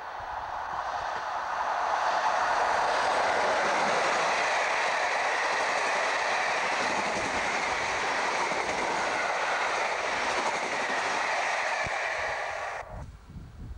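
Locomotive-hauled passenger train passing close at speed: the rush of wheels on rail and the coaches builds over the first two seconds, holds steady and loud, then cuts off suddenly near the end.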